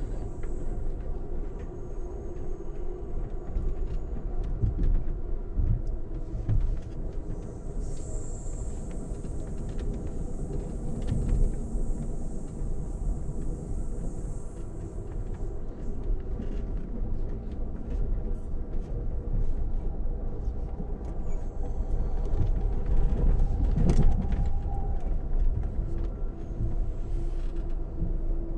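Amtrak passenger train heard from inside the coach while running at speed: a steady low rumble of the wheels on the rails, with scattered clicks and knocks and one louder knock late on.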